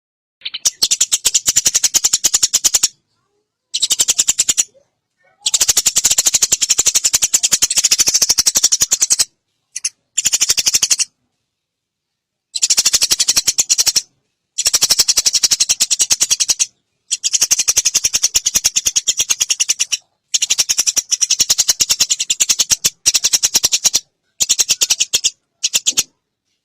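Eurasian tree sparrow chirping rapidly and without pause, in loud bouts of a few seconds broken by short gaps of dead silence.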